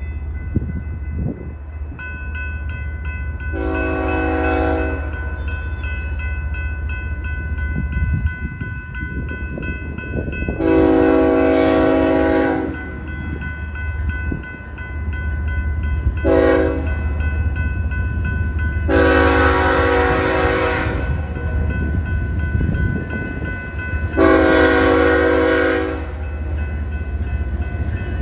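BNSF coal train's diesel locomotive sounding its chime air horn in the grade-crossing pattern: long, long, short, long, then a further long blast. Underneath is the steady low rumble of the locomotives and train.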